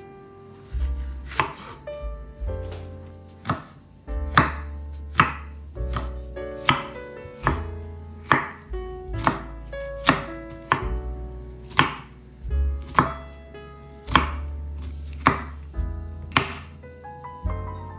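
Kitchen knife dicing a red pepper on a cutting board, about twenty sharp chops at an uneven pace of one to two a second, over background music.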